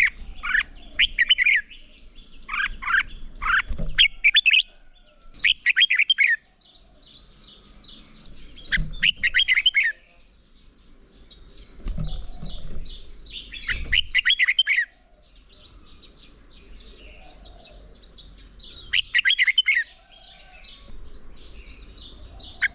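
Red-whiskered bulbuls singing: short bursts of rapid, warbling notes repeated every few seconds, with fainter, higher twittering in between. This is the bulbuls' rivalry song.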